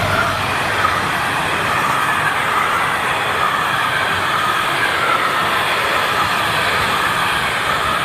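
Empty ballast wagons of a long freight train rolling past close by: a steady, loud rumble and rattle of wheels on the rails, with a high wavering tone over it.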